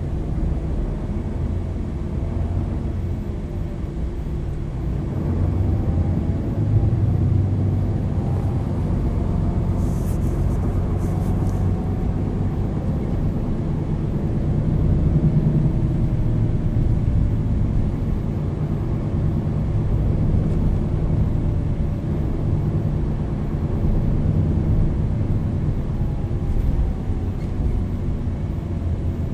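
MAN Lion's City NL 323 city bus, Euro 6 diesel with a ZF EcoLife automatic gearbox, driving along: a steady low engine rumble with a drivetrain whine that rises in pitch and drops back several times as the bus accelerates and changes gear. There are brief rattles about ten seconds in.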